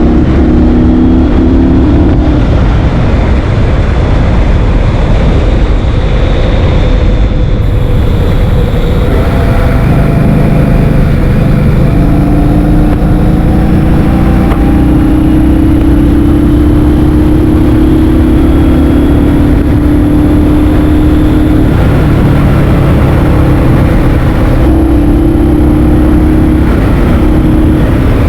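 Loud wind noise buffeting the microphone on a moving motor scooter, with the engine note rising and falling in pitch underneath.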